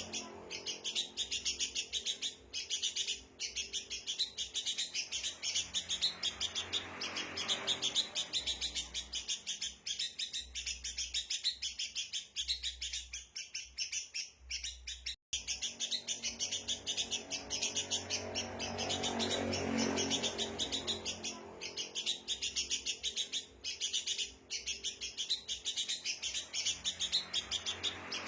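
Sooty-headed bulbuls chattering in a dense, rapid, rowdy flurry of chirps, the agitated kutilang calls used as a lure for wild birds. There is a brief break about halfway through.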